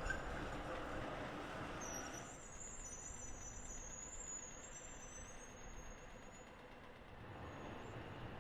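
Tram wheels squealing on a tight curve: a thin, high, wavering squeal starts about two seconds in and dies away about three seconds later. Before it, the tram rolling over the rails runs louder, then drops away as the squeal begins.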